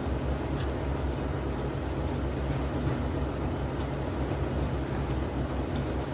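Steady low background rumble with an even hiss over it and a few faint clicks.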